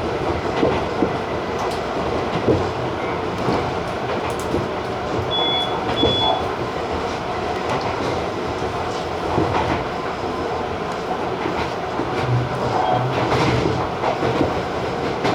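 Tobu TJ Liner train running along the track: a steady rumble with the wheels knocking over rail joints. Two short high beeps sound about five and six seconds in.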